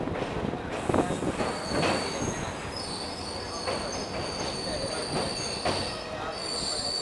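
Passenger train running on the rails, with steel wheels squealing in high tones from about a second and a half in. Knocks of the wheels over rail joints come through the running noise every second or so.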